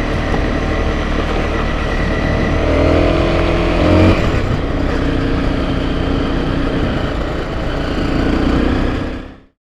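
Off-road motorcycle engine running under way. Its pitch climbs about three to four seconds in, then drops suddenly, and it rises again near the end before the sound cuts off abruptly.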